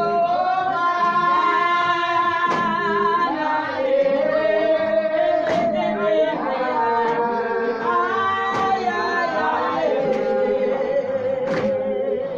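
A group of voices singing a slow hymn unaccompanied, holding long notes together, with a sharp clap or knock every few seconds.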